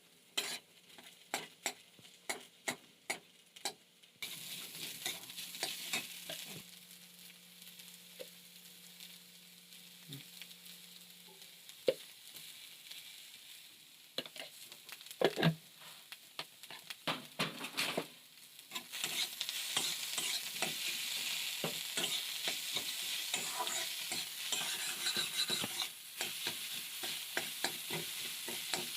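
A spatula scraping and stirring egg and potato curry frying in a pan, with repeated scraping strokes over a high sizzle. The sizzle sets in a few seconds in and grows louder about two-thirds of the way through, with a few sharper knocks of the spatula against the pan in the middle.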